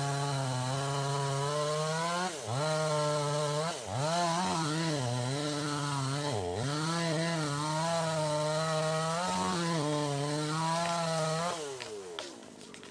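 Chainsaw running at high revs through wood, its pitch dipping sharply and recovering a few times as the chain bogs under load in the cut. Near the end the engine note falls away as the throttle comes off.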